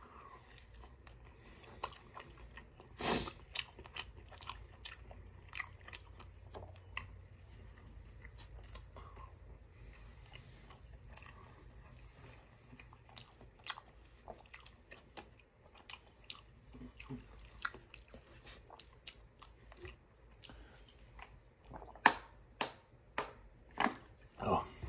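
Close-up eating sounds: a person chews a soft-breaded chicken strip with scattered wet mouth clicks, one sharper crunch about three seconds in. Near the end come several louder gulps as he drinks from a bottle.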